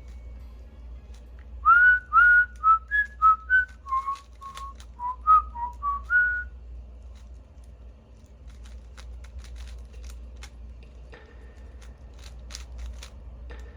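A person whistling a short tune of about a dozen quick notes, each sliding up into its pitch, for about five seconds. After that only faint, scattered light clicks.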